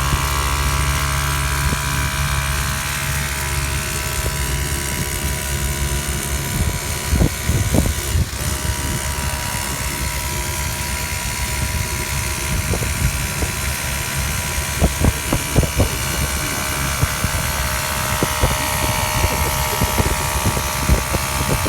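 Mini dirt bike's small engine running: a steady drone for the first several seconds, then uneven, with scattered short knocks and bumps.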